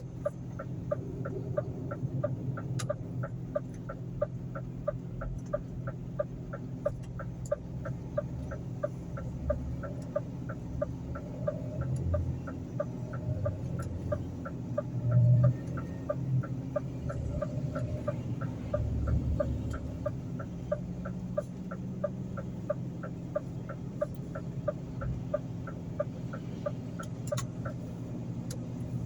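Steady, even ticking, about two and a half ticks a second, over a continuous low hum; the ticking stops shortly before the end.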